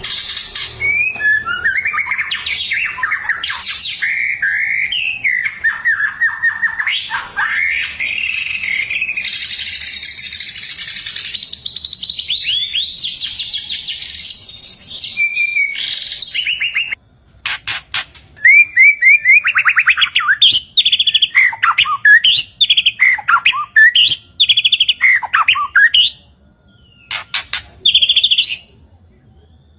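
White-rumped shama (murai batu) singing vigorously: a long run of varied loud whistled phrases, fast trills and sweeping notes. The song breaks off briefly about halfway and again near the end, with a few sharp clicks in the gaps.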